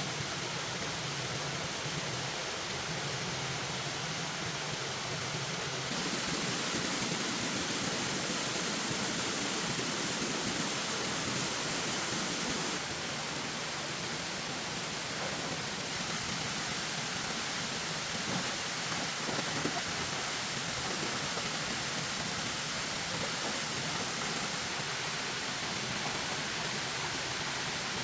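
Steady rushing noise of falling or flowing water, like rain or a stream, with no distinct events; its tone shifts abruptly about six, thirteen and twenty-five seconds in.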